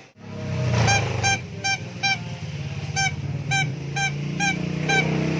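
A starling (jalak) mimicking a honking sound: a series of about nine short, same-pitched honks, repeated unevenly over about four seconds, over a steady low drone.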